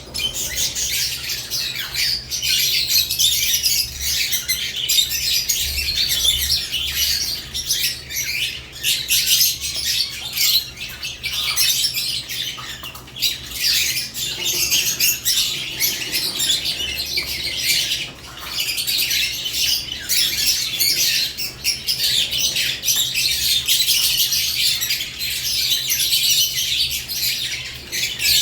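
A flock of caged lovebirds chattering continuously, a dense mix of shrill squawks and chirps with no break.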